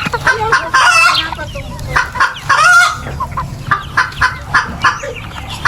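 A flock of native chickens clucking at feeding time, many short calls overlapping, with two louder, longer calls about a second in and just before the middle.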